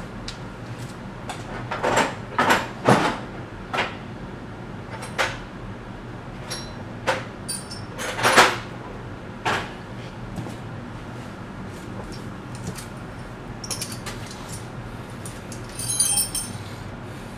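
Irregular clicks, knocks and rustling from hands working on a removed engine wiring harness, its plastic tubes and connectors, with a brief clattering cluster near the end.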